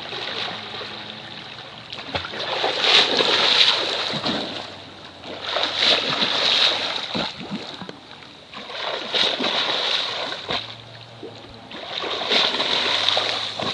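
Water splashing and sloshing, swelling and fading four times about every three seconds.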